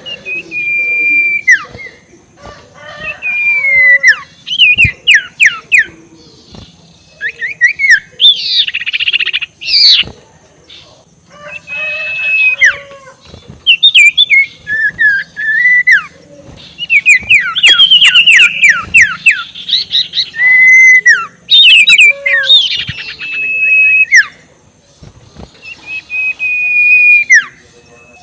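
Scops owl (sirtu) giving its cackling 'ngekek' calls: repeated falling, squealing notes and fast chattering runs in bursts of a second or two, with short pauses between. This call is used as a lure to agitate rival owls.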